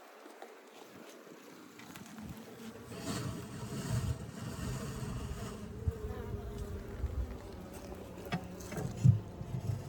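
Honeybees buzzing in a steady hum over the open hive, with a low rumble on the microphone and a sharp knock about nine seconds in.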